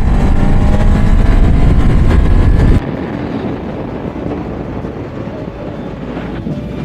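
Vehicle driving at speed: heavy rumble and wind noise with an engine note rising as it accelerates. It cuts off abruptly a little under three seconds in, giving way to quieter, steady road noise.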